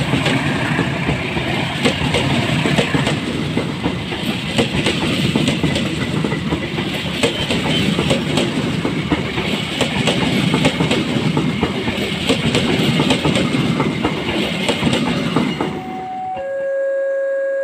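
Passenger train coaches rolling past close by: a steady rumble with a fast run of wheel clicks over the rail joints. About sixteen seconds in, the train sound cuts off and steady electronic tones take over.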